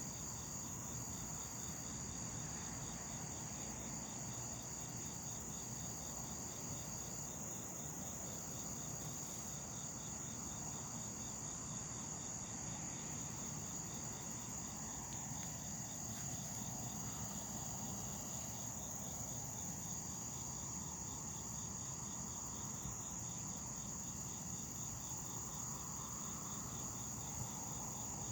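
Chorus of insects: crickets trilling in a fast even pulse under a steady high-pitched buzz, over a low background hum.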